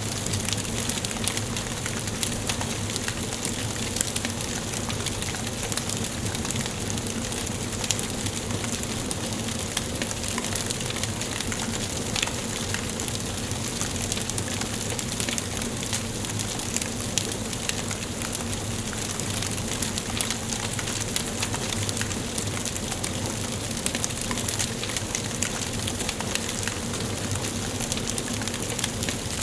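Wood fire burning in a fireplace: a steady hiss with frequent small sharp crackles and pops scattered throughout.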